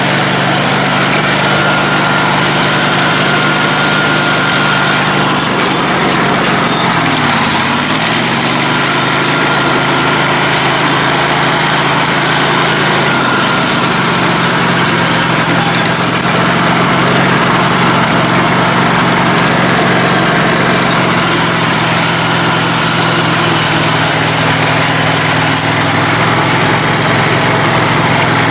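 Small single- or twin-cylinder engine of a lifted riding lawn mower running steadily, its pitch dipping briefly and coming back up about seven seconds in. The rider suspects a blown carburetor jet after pushing the engine too hard.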